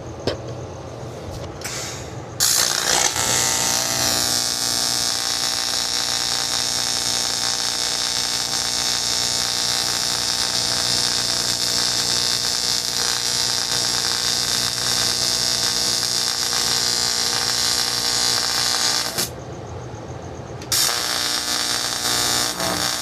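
Small handheld electric power tool running steadily at high speed, likely working the saddle piece. It starts about two seconds in, stops near the end and starts again a second or two later.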